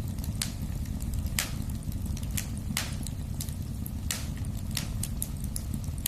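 Wood fire burning in a fireplace: a steady low rumble of the flames with sharp, irregular crackles and pops from the burning logs, about one or two a second.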